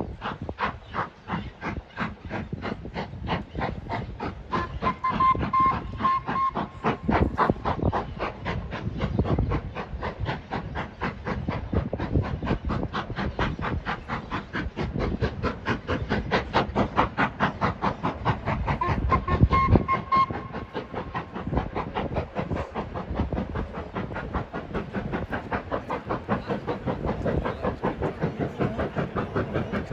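Steam locomotive working hard, its exhaust chuffing in a rapid, even beat. The whistle blows twice, each time for a couple of seconds, about five seconds in and again near twenty seconds.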